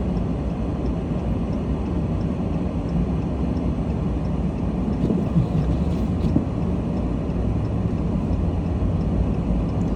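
Steady low rumble of a car's engine and tyre noise on a snowy road.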